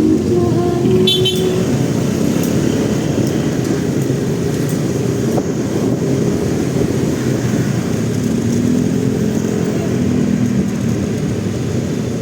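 Motorcycle riding through dense city traffic: a steady engine and road rumble with other vehicles around, and a short high beep about a second in.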